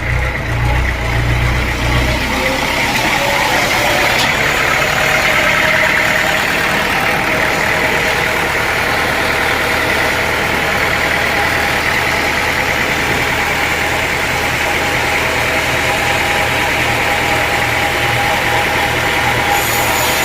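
Sawmill machinery running steadily: a constant mechanical noise over a motor hum, with a heavier low drone that drops away about three seconds in.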